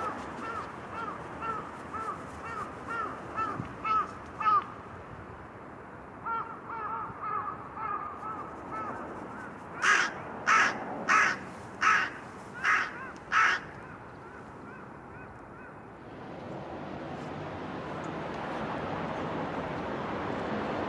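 Crows calling: quick runs of short calls, then six loud, harsh caws about two-thirds of a second apart. Near the end the surf and wind noise swells.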